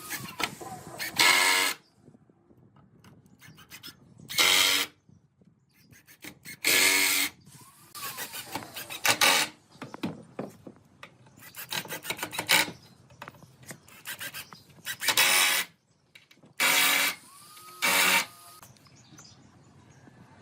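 A hand tool working wood: about eight separate rasping strokes, each about half a second long, unevenly spaced, with lighter scraping between them.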